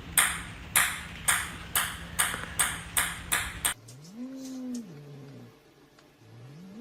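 A sharp ringing ping repeats about twice a second for the first few seconds. Then the sound changes abruptly to an animal giving two long, low calls, each rising and then falling in pitch.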